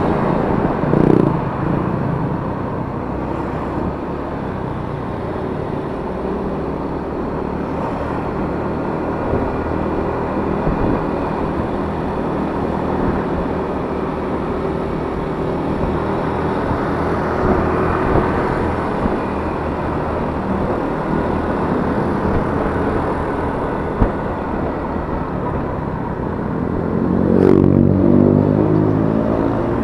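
Yamaha Mio S 125 scooter's single-cylinder engine running steadily under way, with wind and road noise. A louder engine note swells and rises near the end.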